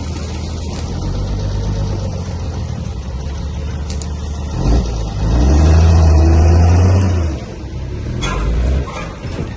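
Heavy-equipment diesel engine running steadily, rising into a louder rev about halfway through that holds for a couple of seconds and then drops back.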